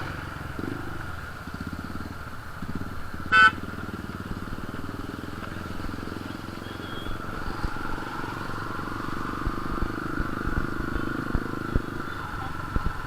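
Motorcycle engine running while riding, with one short horn beep about three and a half seconds in.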